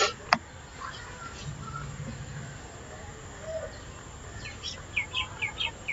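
A small bird calling: a quick run of six or seven short, falling chirps starting about four and a half seconds in, over a faint steady background hum. A single sharp click comes just after the start.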